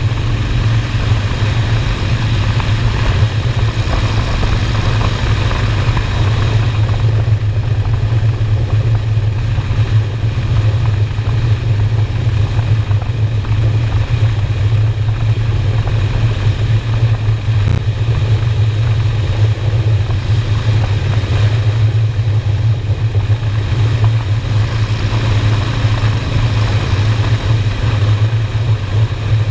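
Honda Shadow motorcycle's V-twin engine running at a steady cruise, a strong, even low note with road and wind noise above it.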